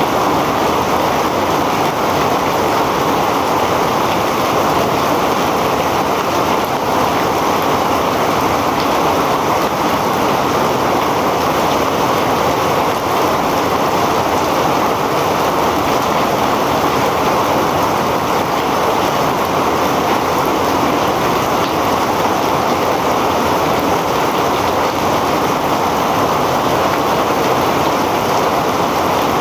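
Heavy rain pouring steadily, a dense, even wash of noise with no let-up.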